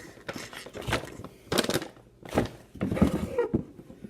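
Handling noise from an unboxing: rustling packaging with several short knocks and scrapes as the bags and plastic parts are moved about.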